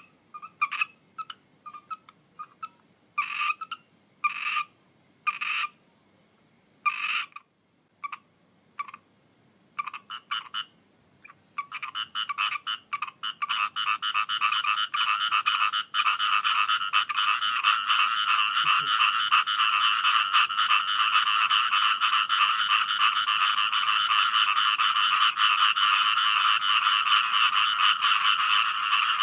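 Frogs croaking: at first scattered single calls, then about twelve seconds in many frogs join in a dense, continuous chorus that gets steadily louder.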